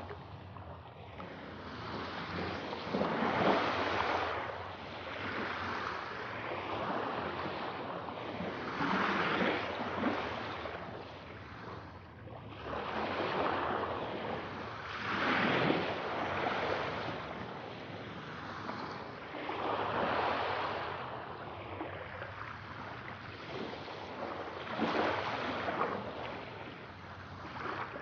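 Sea waves breaking and washing ashore, each wave swelling and fading every five or six seconds, with no other sound. The recording is processed as 8D audio for headphones, panned around the listener.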